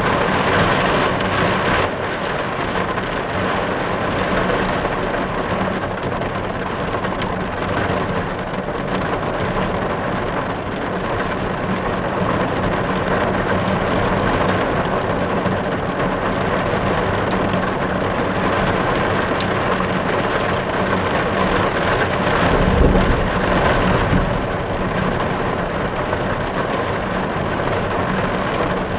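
Steady rain falling on a car's roof and windows, heard from inside the car, with a brief low rumble swelling about 23 seconds in.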